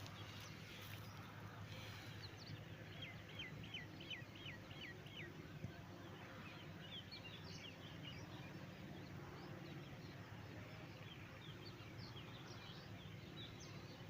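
Small birds chirping: a quick run of about eight repeated high notes a few seconds in, then scattered short chirps, over a faint steady low hum.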